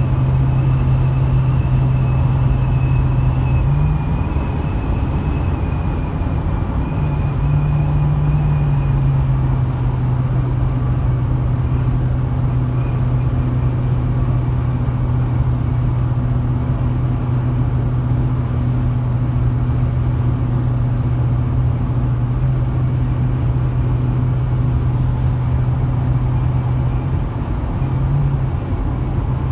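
2008 Chevrolet 2500 HD's 6.0-litre V8 running steadily while the truck drives at speed, heard from inside the cab over constant road and tyre rumble. The engine note holds steady apart from a few brief shifts in pitch.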